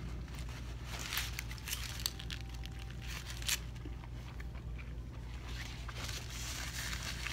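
Wet chewing of a mouthful of breakfast burrito, with small clicks and crackles of the mouth, then a paper towel rustling as it is wiped across the mouth near the end. A steady low hum sits underneath.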